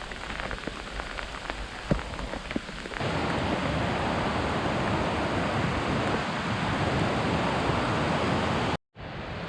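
Steady pattering hiss of falling snow striking close to the microphone, with a few faint clicks at first. It jumps louder about three seconds in and cuts off suddenly near the end.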